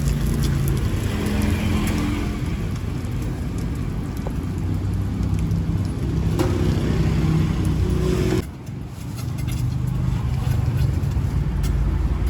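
Street traffic of motorbike engines running and passing close by, with a steady low engine hum whose pitch shifts as bikes go by. The sound drops away suddenly for about a second, about eight and a half seconds in, then comes back.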